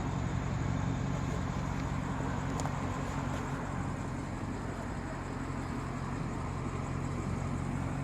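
2017 BMW 650i Gran Coupe's twin-turbo V8 idling steadily.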